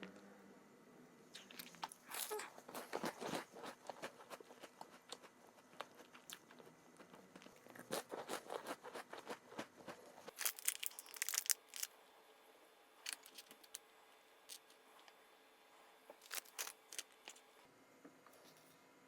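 Crunchy strawberry snack being bitten and chewed, in several bouts of crisp crackling crunches with short quiet pauses between them.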